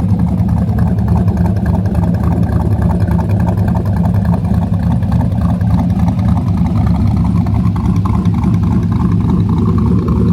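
A car engine running with a deep, steady exhaust rumble.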